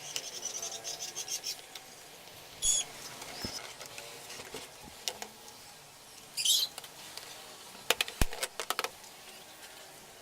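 Birds chirping in the background, with a quick run of high chirps at the start and single calls later, and a handful of sharp clicks about eight seconds in.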